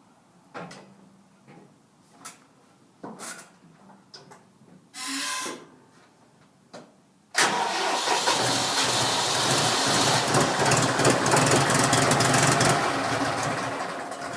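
John Deere 5103 tractor's diesel engine cold-started after sitting for days in freezing weather: a few clicks and knocks, a short first try about five seconds in, then on the second try it cranks and catches about seven seconds in, running loud and easing off a little near the end.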